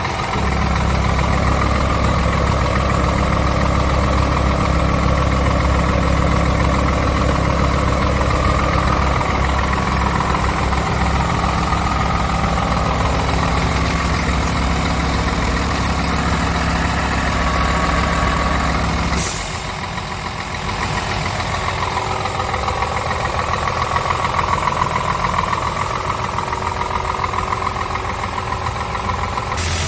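Scania R tractor unit's diesel engine idling steadily. About two-thirds of the way through there is a short hiss, and the deep part of the engine sound then drops away, leaving a thinner idle.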